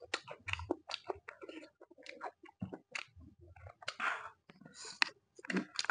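Close-up eating sounds: wet chewing and lip-smacking clicks, with a short hissing suck about four seconds in as marrow is drawn from a cooked buffalo bone.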